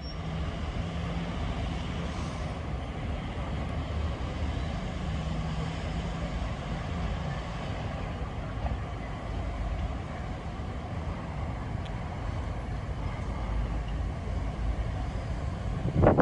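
Steady low rumble of vehicle noise with a faint hum, ending in a sudden loud sound.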